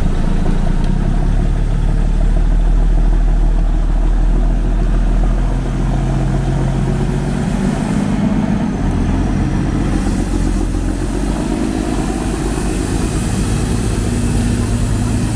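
Large engine running steadily, with a change in its note about a third of the way through and again later.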